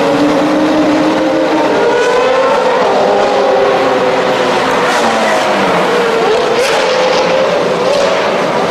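Several sports-car engines running at once as the cars drive past, their overlapping exhaust notes rising and falling with throttle and gear changes.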